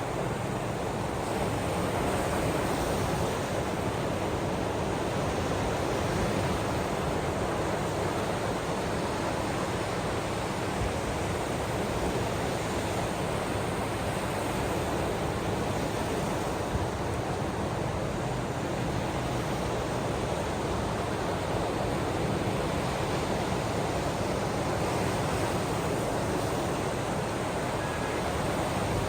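Steady, even rushing of water with no distinct wave surges or breaks.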